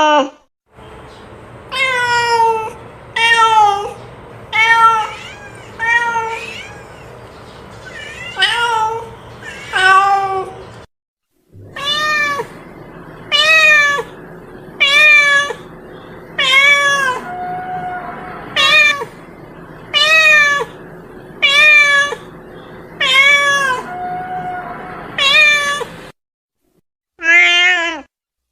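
Domestic cat meowing over and over, one short call about every second, each one bending up and down in pitch. The calls come in separate stretches broken by abrupt cuts to silence.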